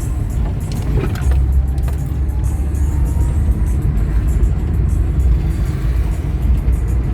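Steady low rumble of a car's engine and tyres on the road, heard from inside the moving vehicle, with music playing along with it.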